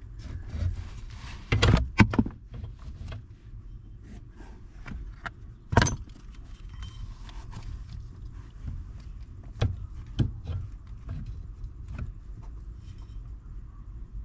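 Scattered clicks, knocks and rattles of hand work on car parts, with parts and tools being handled, over a low steady hum. The loudest knocks come about two seconds in and again about six seconds in.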